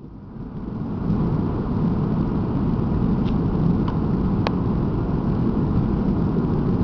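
Steady low rumble of engine and airflow noise inside a Boeing 757's cabin on landing, swelling up over the first second, with a few light clicks around the middle.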